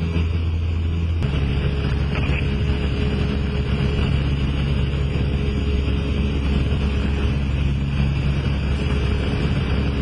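The Cessna 172SP's four-cylinder Lycoming engine and propeller running in flight with a steady drone. The engine note shifts to a different pitch about a second in, then holds.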